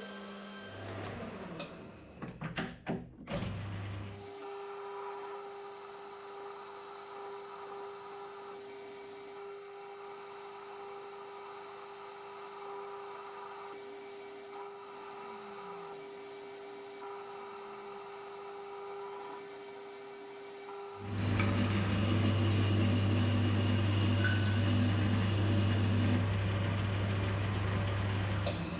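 Metal lathe running while a parting tool cuts a machined sleeve off the bar stock, a steady mechanical hum with a few knocks in the first seconds. About two-thirds of the way through the sound grows clearly louder and rougher as the cut continues.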